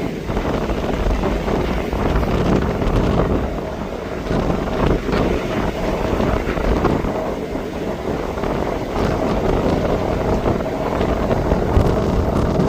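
Jet airliner engine noise, a steady rumble, under heavy wind buffeting on the microphone, with a faint steady engine tone through the middle.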